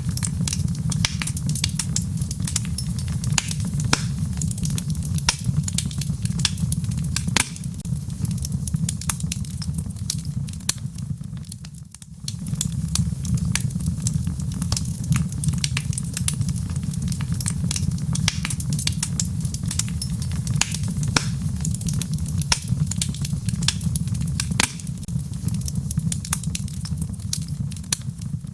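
Wood logs burning in a fireplace, crackling with frequent sharp pops and snaps over a steady low rumble of the flames. The sound dips briefly about twelve seconds in.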